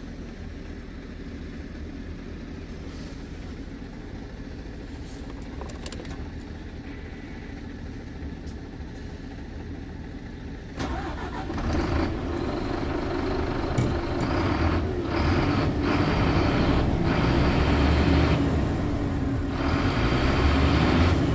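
Scania P truck's diesel engine running steadily, then getting clearly louder about halfway through as it is revved or put under load.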